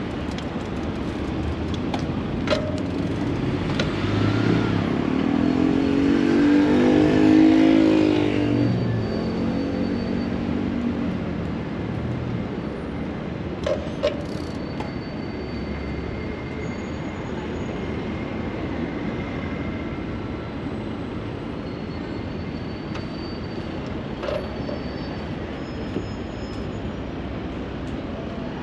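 City street traffic heard from a moving bicycle, with a motor vehicle's engine passing close; it swells to its loudest about seven seconds in and then fades away. A few short clicks sound here and there.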